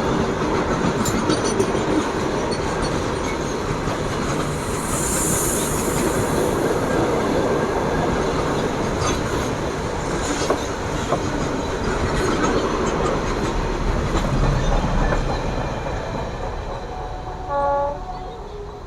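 Indian Railways train running through the station: a steady rumble of wheels on rail, with clicking over the rail joints, easing off toward the end. A short horn blast sounds near the end.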